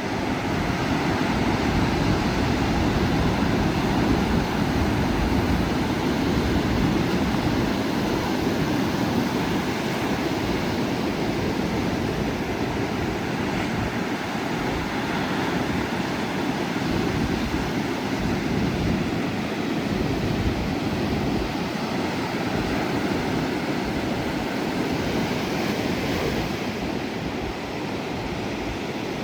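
Ocean surf breaking and washing in a steady wash of noise, with wind buffeting the microphone.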